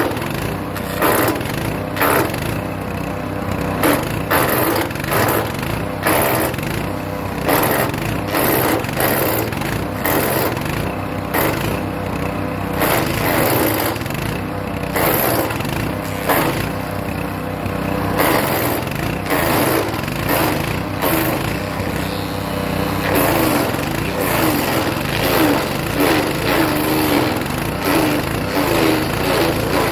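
Hecht 6208 petrol wood chipper running steadily while chipping birch branches, with irregular cracking and crunching as the wood is fed through the blades.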